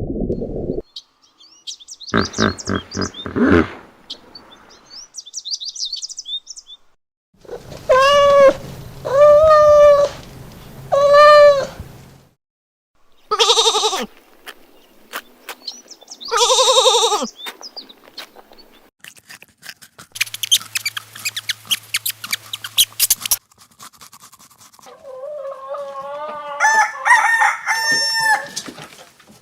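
A run of short, separate clips of rooster crowing and chicken calls, cut one after another. Among them are three arched calls in a row partway through, a stretch of steady hiss, and a long wavering crow near the end.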